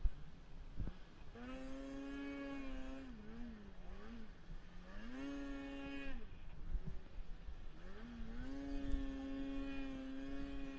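Snowmobile engine under throttle: it climbs to a steady pitch and holds it three times, for one to two seconds each, dropping back and wavering between.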